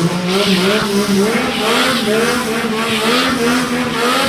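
Motorcycle engine held at high revs, a steady, slightly wavering note, with the rear tyre squealing in repeated swells, as in a stunt burnout or drift.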